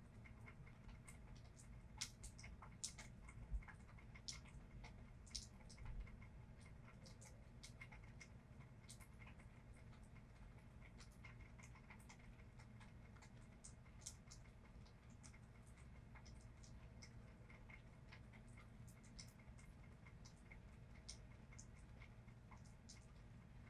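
Faint rain ambience: scattered drops ticking and dripping at an irregular pace over a steady low background rumble, with a few sharper drips in the first several seconds.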